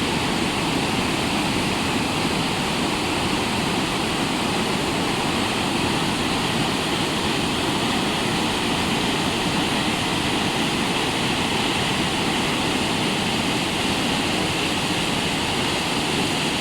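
Waterfall: water pouring down in a steady rush.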